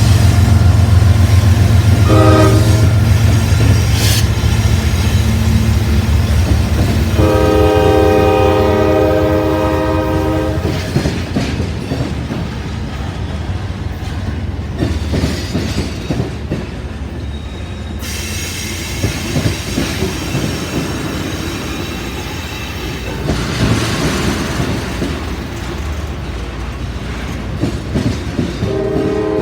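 Freight train with three diesel locomotives passing: the engines rumble loudly for the first ten seconds while the horn sounds a short blast about two seconds in and a long blast from about seven to ten seconds in. After that the loudness falls and the cars roll by with a clatter of wheels over rail joints, and a horn starts again right at the end.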